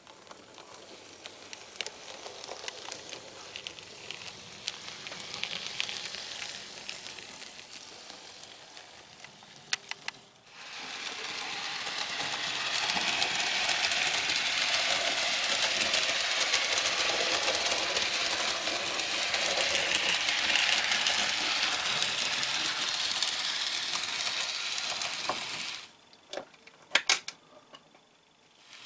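OO gauge model locomotive running over handbuilt track, a steady whirring hiss of motor and wheels peppered with fine clicks over the rail joints. It grows louder after about ten seconds, stops a few seconds before the end, and is followed by a few sharp clicks.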